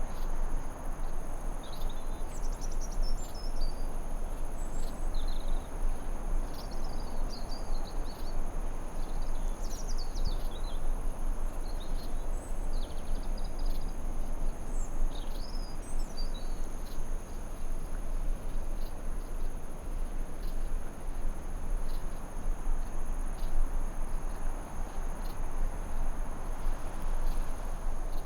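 Forest ambience: a steady hiss under a continuous high insect drone, like crickets. Birds twitter in short, quick phrases through the first half, then fall quiet.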